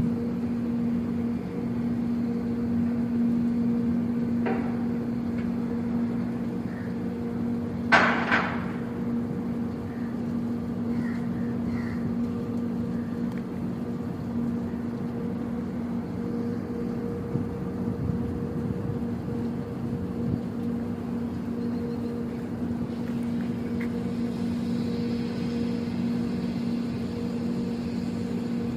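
Steady hum of heavy industrial machinery with a low, even drone, broken by a brief sharp noise about eight seconds in and a fainter one a few seconds before.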